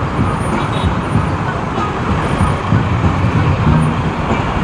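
Steady road and traffic noise heard from a moving motorcycle, a dense, continuous rumble with no separate events standing out.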